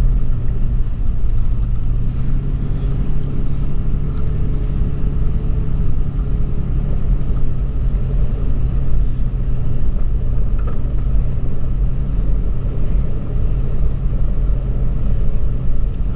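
The 2013 Toyota 4Runner SR5's V6 engine and drivetrain run steadily while driving, giving a low, even rumble with no revving.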